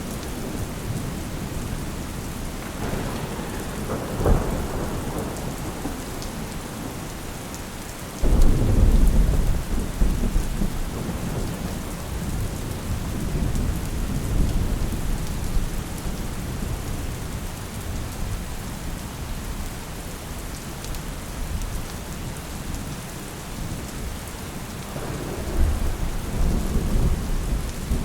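Steady rain falling, with rolls of thunder. A rumble builds about three seconds in with a short sharp crack. A loud clap hits suddenly about eight seconds in and rumbles away over a few seconds. Another roll of thunder comes near the end.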